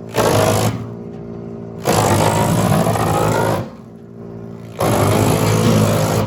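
Tractor-mounted wood chipper shredding branches in three loud bursts of crunching and grinding, about two seconds apart, as branches are fed in. Between the bursts the machine runs on with a steady hum.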